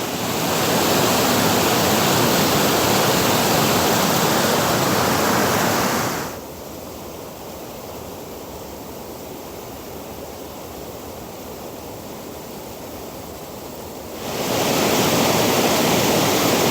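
Waterfall rushing steadily over rocks, a dense even hiss of falling water. It drops suddenly to a much quieter level about six seconds in and comes back up to full strength about eight seconds later.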